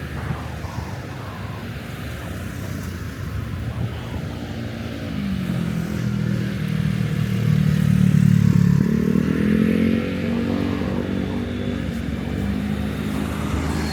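Street traffic with a motor vehicle passing close. Its engine grows louder from about five seconds in and is loudest from about seven to ten seconds, with the engine pitch rising around nine seconds as it speeds up, then it fades back into the traffic.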